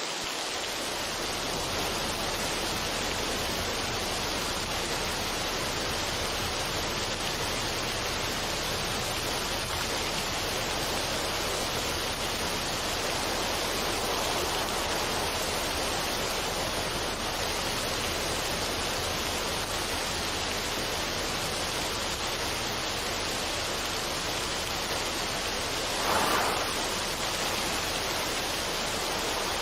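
Steady, even rushing noise, like a waterfall or stream, with a brief swell about 26 seconds in.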